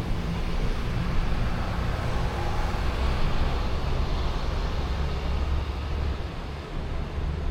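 City street ambience: a steady rumble of traffic with a dense low hum, swelling slightly around the middle.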